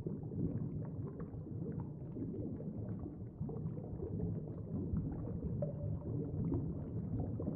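Muffled underwater ambience: a low, even rumble of moving water with faint scattered crackles.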